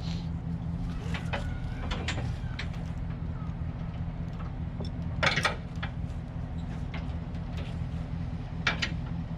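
A vehicle engine idling steadily, with a few sharp clanks and knocks over it, the loudest about five seconds in.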